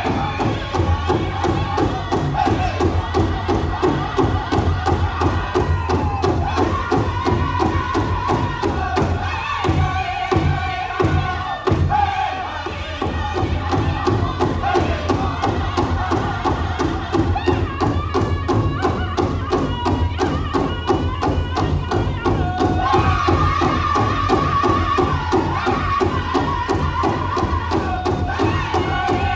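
Powwow drum group singing over the steady beat of a big drum struck in unison.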